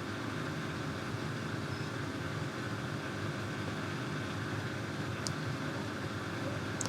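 Samsung front-load washing machine's drain pump humming steadily as it tries to pump out water that is not leaving the machine, which the owner suspects is a faulty pump.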